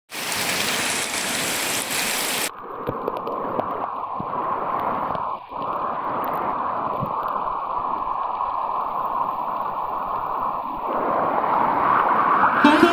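Heavy rain falling into standing water, a steady hiss of splashing with scattered individual drop splashes. About two and a half seconds in it suddenly turns duller, its high end cut away.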